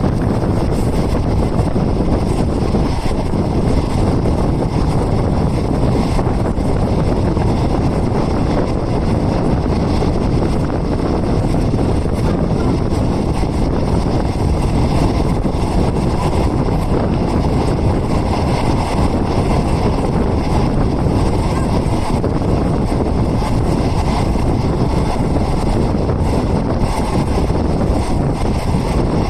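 Steady rush of wind and rumbling running noise from a moving passenger train, heard from inside a non-air-conditioned coach with the windows open.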